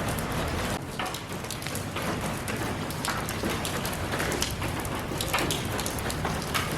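Steady rain falling on surfaces, with many separate close drops landing as distinct light taps over a constant hiss.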